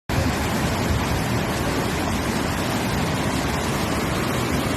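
Floodwater rushing: a loud, steady noise that starts abruptly.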